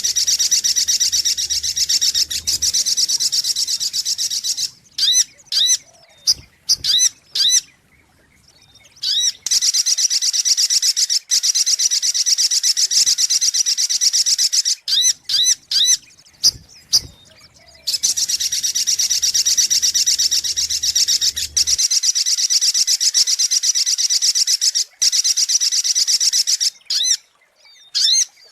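Little spiderhunter (sogok ontong) calling: three long, fast, high-pitched trills of several seconds each, with short runs of separate sharp chirps in the gaps between them.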